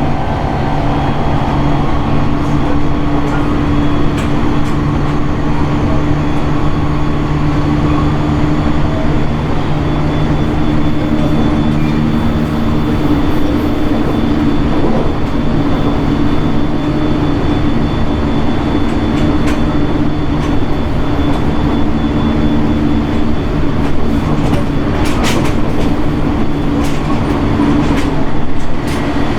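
JR 701 series 1000-subseries electric train running between stations: a steady rumble of wheels on rail with an even low hum, and a few sharp clicks near the end.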